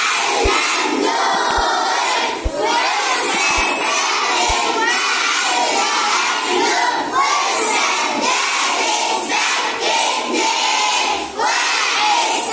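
A group of children chanting together loudly, many voices at once. Low thuds come about once a second in the first few seconds.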